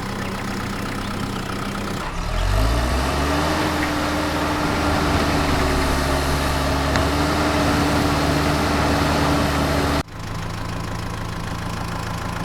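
An engine idling, then speeding up about two seconds in and holding a higher, steady speed; about ten seconds in it drops abruptly back to idle.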